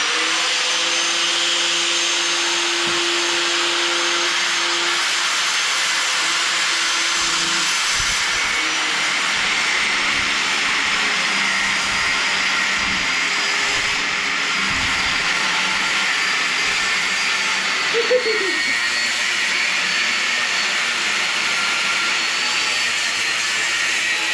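A power tool running steadily and loudly for the whole stretch, a hiss-like noise with a faint high whine that slowly sinks in pitch.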